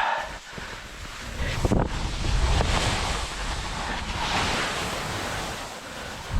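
Skis sliding over snow at speed, with wind buffeting the microphone and growing stronger after the first second or so; a couple of sharp knocks, one near the end.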